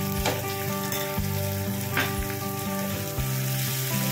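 Chopped onions and garlic sizzling in hot oil in a kadhai, stirred with a wooden spatula. The sizzle is steady, with a couple of sharper spatula strokes standing out.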